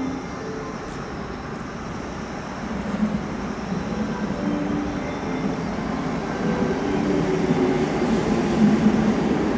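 Keihan electric train moving through the station, its rumble growing steadily louder toward the end, with a few short steady tones over it.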